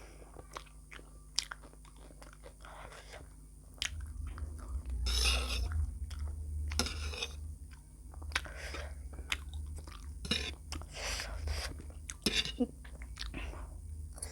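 A person chewing and biting food close to the microphone: a run of short mouth clicks and irregular bursts of chewing noise, with a low rumble under it from about four seconds in.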